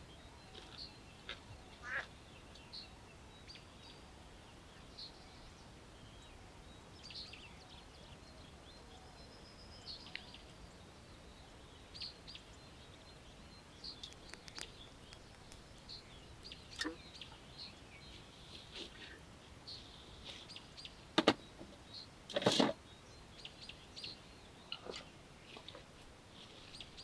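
Small birds chirping in short scattered calls over a quiet outdoor background. About 21 seconds in there is a sharp knock, and a slightly longer, louder clatter follows a second later.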